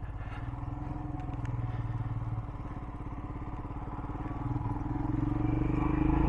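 Royal Enfield Himalayan's single-cylinder engine running under way, growing louder over the last couple of seconds as it picks up speed.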